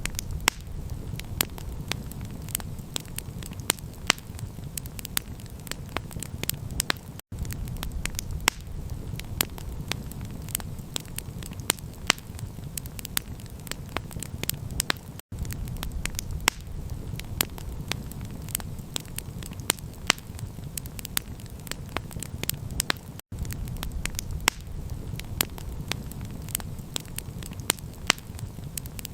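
Campfire crackling: many sharp pops and snaps over a steady low rumble. The sound cuts out for an instant about every eight seconds, where the loop repeats.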